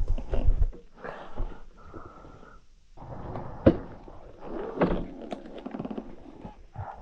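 Irregular knocks, thuds and scuffing, like footsteps and things being handled, with one sharp knock a little past halfway and a brief steady tone just after two seconds.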